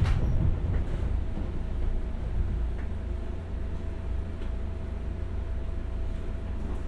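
JR West 201 series electric train running, heard from inside the car: a steady low rumble of wheels on rail, with a faint steady whine joining about a second in and a few light clicks.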